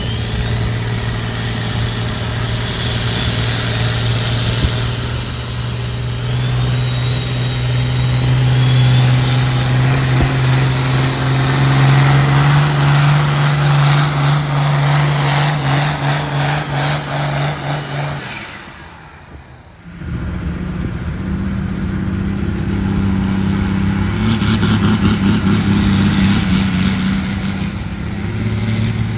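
Pulling vehicle's engine at full throttle under load, its pitch climbing slowly, with a high whistle gliding over it. About two-thirds of the way through it cuts away suddenly, and another pulling engine comes in running hard.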